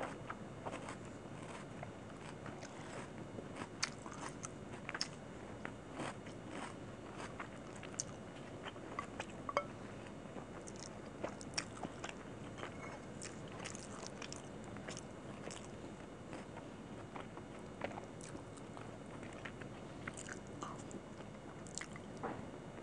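Close-miked eating sounds: chewing and crunching mouthfuls of chicken curry and rice, with many small sharp clicks and smacks scattered throughout.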